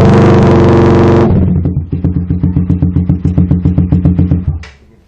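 Suzuki Raider R150 motorcycle exhaust through an HGM Gunmetal aftermarket pipe, held revved for about a second, then falling to an idle that pulses at about five beats a second before the engine is switched off near the end. The idle is a bit weak because the stock carburettor is untuned.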